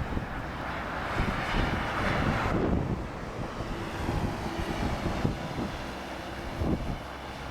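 Jet airliner's engines on approach, a steady rushing whine that swells about a second in and eases after about three seconds, with strong wind gusting on the microphone.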